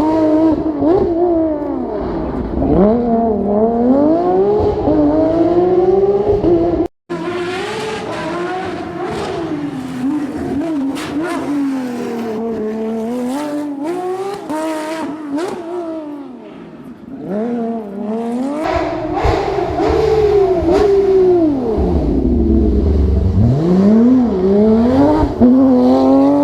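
Porsche 997 GT3's flat-six engine driven hard, its pitch climbing and falling again and again through gearshifts and lifts. The sound cuts out for an instant about seven seconds in.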